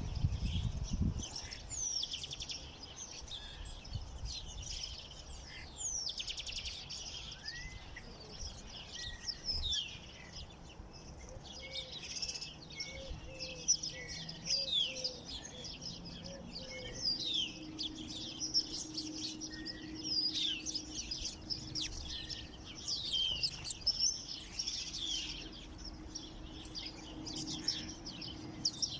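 Many small songbirds chirping and singing at once, a dense chatter of short overlapping calls and trills. A low thump in the first second.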